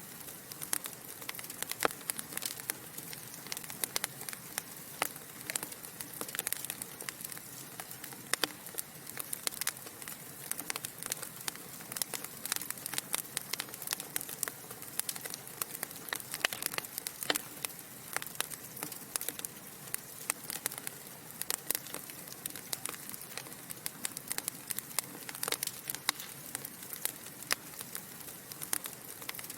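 Wood fire burning in a fireplace: a constant soft hiss under many small, irregular crackles and pops from the logs.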